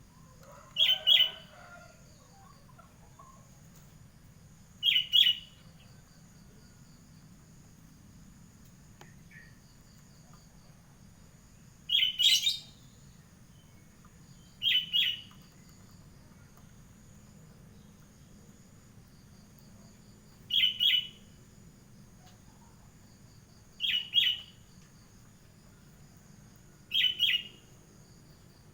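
A bird calling seven times, each a short, sharp double note, with gaps of a few seconds between calls.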